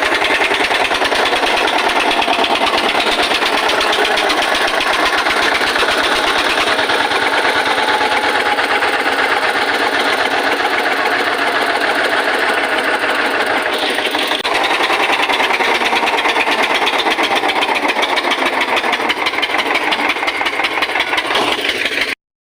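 Eicher tractor's diesel engine running hard with a fast, even knocking pulse, labouring under an overload it cannot pull.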